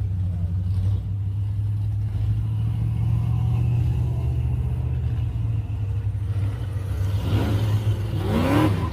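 Classic car engine running with a deep, steady low rumble, then revving up twice near the end, its pitch rising each time as it accelerates out of the lot.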